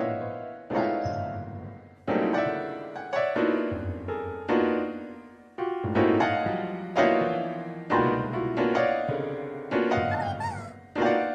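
Sad, slow piano music: chords struck about once a second, each fading away before the next.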